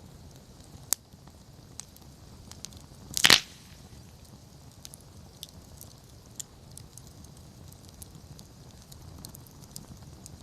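Wood campfire crackling with scattered small pops over a low steady rumble of the flames, and one loud, sharp crack about three seconds in.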